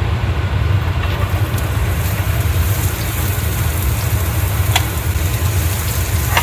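Sliced onions sizzling as they fry in ghee in a pan, with a few spatula clicks against the pan, over a steady low hum. The sizzle grows louder about a second in.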